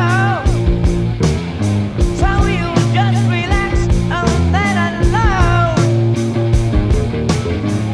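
Heavy metal band recording: electric guitar, bass guitar and drums playing together, with a high melodic line that bends up and down in pitch over steady bass notes and a regular drum beat.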